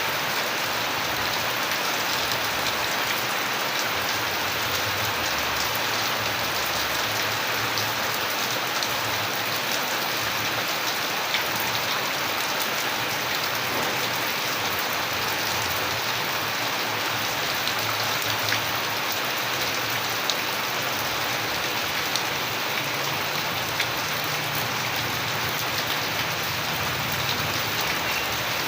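Steady rain falling, a dense even hiss with many individual drops ticking sharply on a hard surface.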